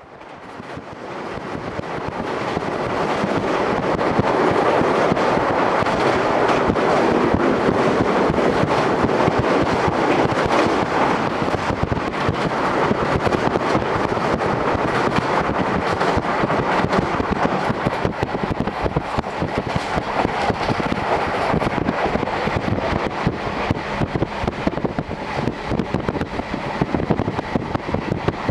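Series 711 electric train running at speed, heard from inside the carriage through an open window: a steady rush of wind and running noise. It fades in over the first few seconds.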